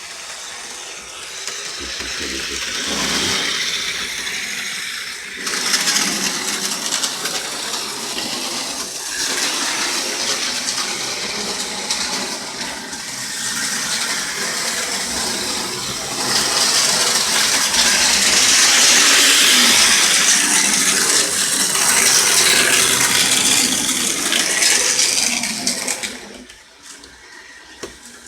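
HO-scale model train running on its track: a steady rattling whir of the small motor and metal wheels on rail that swells and fades as it passes close, dropping away briefly near the end.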